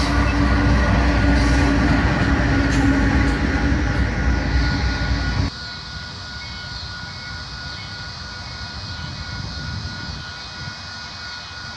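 A Union Pacific diesel locomotive passes close at the rear of a coal train, its engine running loud with a steady hum and its wheels rumbling over the rails. About five seconds in, the sound cuts off sharply to a quieter scene: a grade-crossing bell rings steadily while a distant train approaches.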